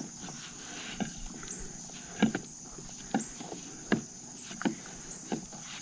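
Pizza dough being kneaded by hand in a bowl: soft, irregular thumps and squishes, roughly one a second.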